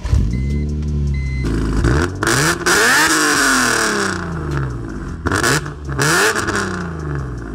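2004 BMW E46 M3's S54 3.2-litre inline-six, tuned and running catless headers and a full exhaust, starting and settling, then revved twice, its pitch rising and falling each time. The exhaust note is pretty raspy.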